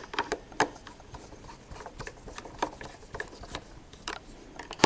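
Scattered light clicks and taps of a screwdriver and the Roomba's plastic parts being handled, with a sharper click right at the end.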